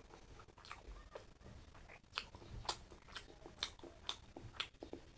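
Close-miked chewing: a person eating, with a run of sharp crunchy clicks about twice a second.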